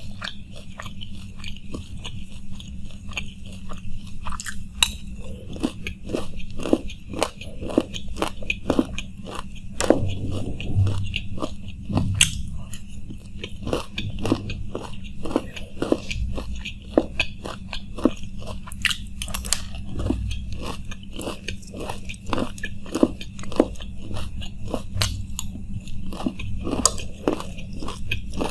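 Close-up crunching and chewing of chanachur makhani, a crunchy fried snack mix, eaten by the spoonful, with many sharp, irregular crunches throughout.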